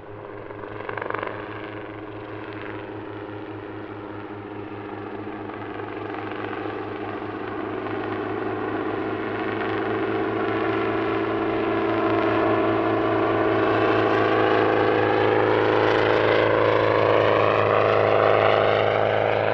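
Schweizer 300 light helicopter running steadily, its engine and rotor drawing closer and growing louder over the first twelve seconds or so.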